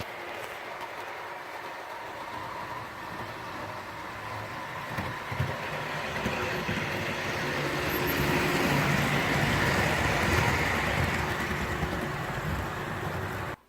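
Model train running along the track, a steady motor and wheel-on-rail noise that grows louder in the second half, then stops abruptly near the end.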